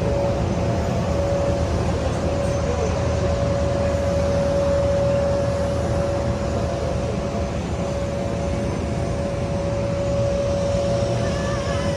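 Aircraft engine running with a steady rumble and a constant whine held throughout.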